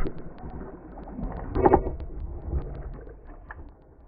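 Knocking and rustling on a plastic fishing kayak as a hooked bass is brought alongside, over low wind noise on the microphone, with scattered small ticks and a louder burst of noise about one and a half seconds in.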